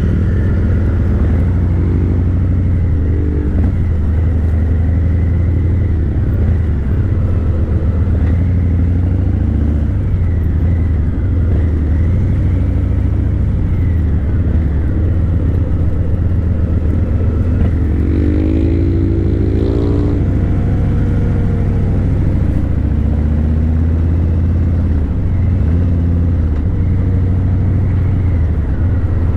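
Harley-Davidson Breakout 117's Milwaukee-Eight 117 V-twin running loud through Vance & Hines Eliminator 300 slip-on mufflers while under way. A rev climbs in pitch about 18 seconds in, then eases back.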